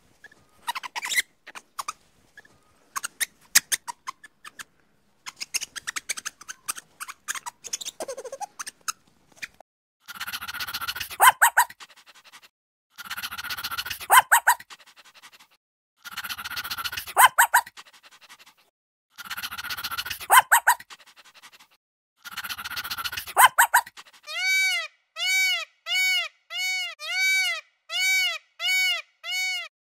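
A series of animal calls. First scattered squeaks and clicks, then five harsh calls about three seconds apart, and from about 24 seconds in a fast run of short pitched calls that rise and fall, about two a second.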